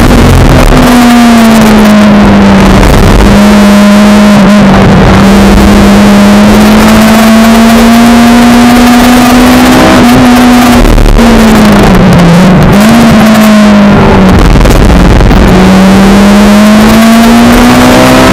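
Honda Civic EP3 Type R's K20A2 four-cylinder engine running hard at high revs, heard inside the cabin over road and wind noise. The engine note climbs slowly, drops and wavers twice past the middle, then climbs again near the end.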